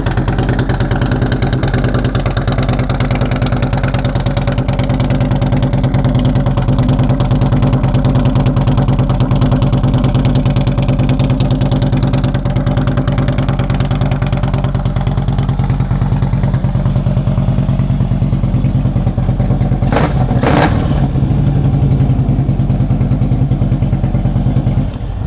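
Harley-Davidson Screamin' Eagle 110 cubic-inch V-twin idling steadily through Vance & Hines mufflers, with its fast, even firing pulse. Two short sharp sounds come about five seconds before the end.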